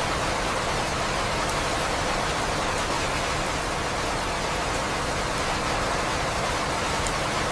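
Steady rain falling, an even unbroken wash of sound with a few faint drop ticks.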